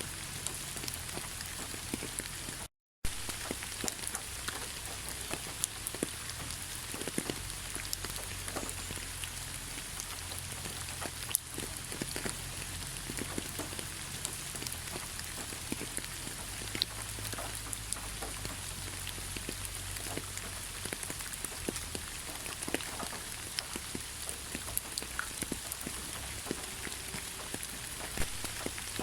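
Heavy rain falling: a dense, steady hiss with many individual drops ticking sharply close by, over a low rumble. The sound cuts out to complete silence for a split second about three seconds in.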